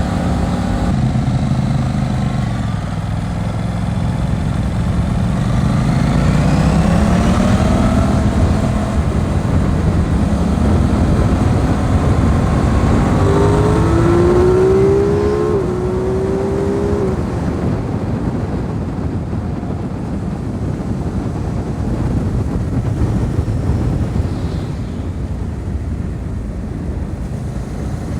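Aprilia RS 660's parallel-twin engine heard from the rider's seat, revving up and rising in pitch several times as it goes up through the gears. After about halfway it settles into steadier, somewhat quieter running at speed.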